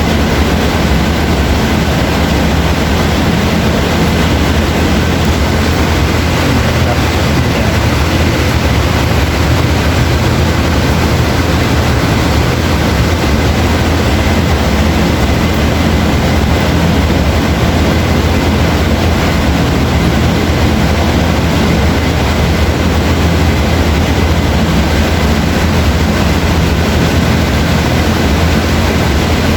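Heavy rain falling steadily: a dense, even hiss with a strong low rumble underneath, with no thunderclaps.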